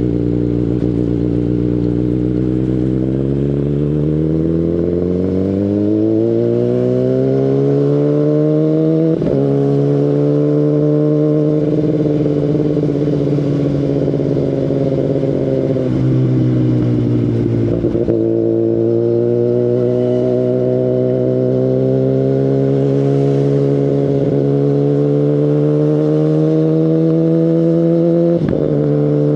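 Kawasaki Ninja ZX-10RR's inline-four running through an Akrapovic Evolution Line carbon full-system exhaust while riding: engine pitch climbs steadily over the first nine seconds, then holds fairly even, with brief sharp dips about nine, eighteen and twenty-eight seconds in.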